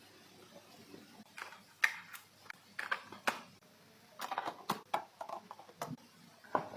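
Handling noise from unboxing a smartphone: irregular sharp clicks and taps with short bursts of rustling, as the box, packaging and phone are handled.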